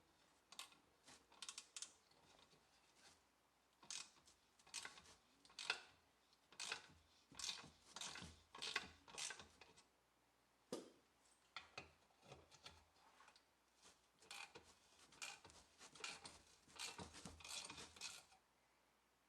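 Metal parts being handled and worked with hand tools: irregular clicks, clinks and short scrapes in clusters, stopping shortly before the end.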